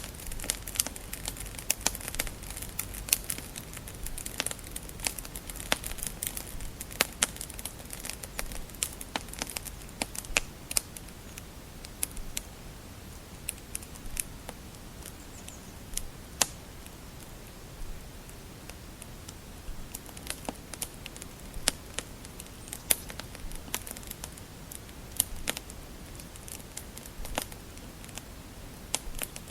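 Wood fire crackling: irregular sharp pops and snaps, some louder than others, over a steady soft hiss and low rumble of the burning logs.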